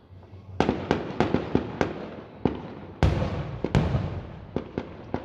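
Fireworks display, aerial shells bursting: after a brief lull, a fast run of sharp bangs starts about half a second in. A heavier boom about three seconds in rumbles on, then a few more scattered bangs follow.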